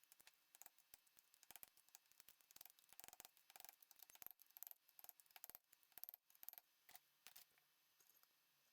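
Quiet, irregular clicks and light taps of small parts and tools being handled during machine reassembly, coming thickest in the middle.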